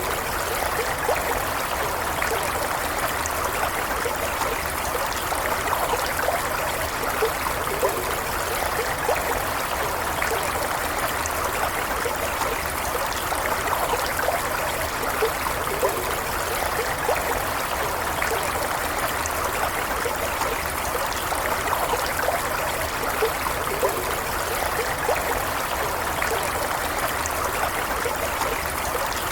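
A stream of water flowing and trickling steadily, with small splashes and bubbling scattered through it.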